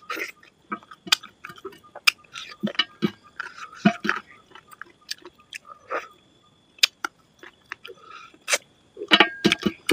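Close-up chewing and lip-smacking of a person eating chicken curry and rice by hand: irregular wet smacks and clicks, growing louder and denser near the end.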